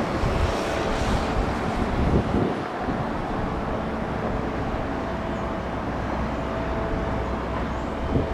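Jet airliner engines running at the airport: a steady low rumble with a faint steady whine over it.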